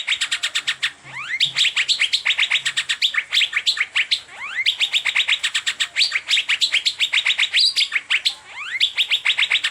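Asian fairy-bluebird (cucak biru) singing a fast, unbroken run of sharp chirps, with rising whistled glides every few seconds; the same phrase repeats over and over.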